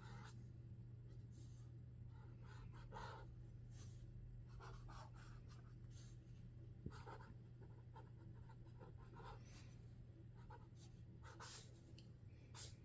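Sharpie Creative Marker tips drawing on paper: faint, irregular short scratchy strokes, one after another.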